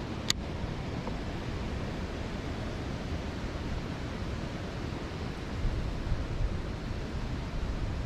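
Strong wind rushing over the microphone as a steady noise, buffeting harder in gusts from about five and a half seconds in, with one sharp click about a third of a second in.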